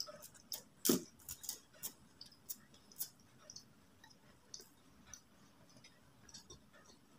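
Close-up mouth sounds of a person eating samosa and raw green chilli: chewing with sharp wet clicks and lip smacks. The clicks come thickly in the first three seconds, the loudest about a second in, then thin out.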